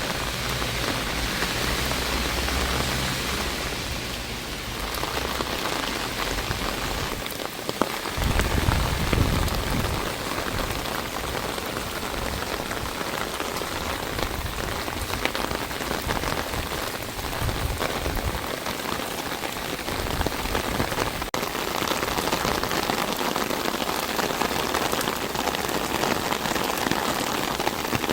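Steady rain falling and pattering on surfaces, with a brief low rumble about eight seconds in.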